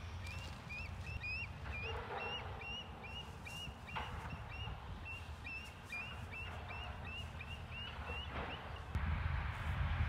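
A bird calling in a long series of short, repeated chirps, about three a second, that stops near the end. Under it is a low wind rumble on the microphone that grows stronger in the last second.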